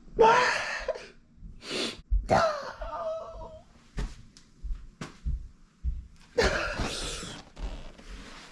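A person making coughing, breathy vocal noises in several separate bursts, with a few short clicks between them.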